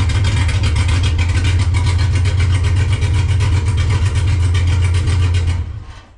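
The Suburban's LS-swap V8 with a cam running at a steady idle through a new 2.5-inch exhaust with Black Widow mufflers, a deep even pulsing rumble; the pipes are only tack-welded and leak. The engine is shut off near the end and the sound dies away.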